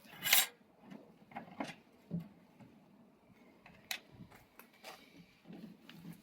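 A hand tool shaping the wooden limb of a bow: one short, harsh scraping stroke near the start, then scattered light knocks and clicks of the tool and stave being handled.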